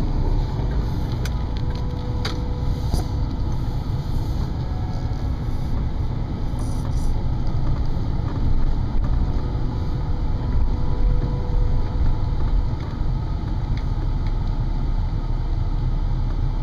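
Steady low rumble of a car driving on a wet road in the rain: engine and tyre noise, with a few faint ticks in the first few seconds.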